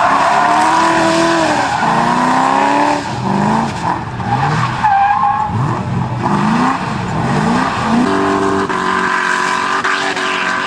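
Tuned car engine revving hard, its pitch climbing and dropping several times in quick succession, then holding a steadier note near the end.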